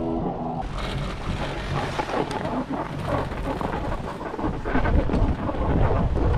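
Strong wind buffeting the microphone with a heavy low rumble, mixed with the rough hiss of sliding fast over snow. A short trail of background music cuts off within the first second.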